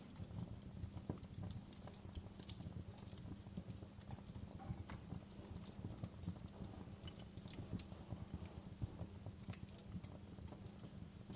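Wood fire burning in a fireplace: a steady low rumble of flames under a dense, irregular crackle of small pops, with a couple of sharper snaps.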